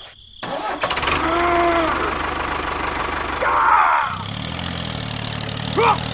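A small engine starts up and about four seconds in settles into a steady idle. Short vocal exclamations sound over it.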